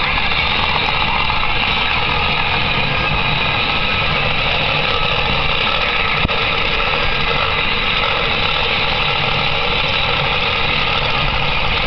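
Monster truck engine idling steadily and loudly, with one brief click about six seconds in.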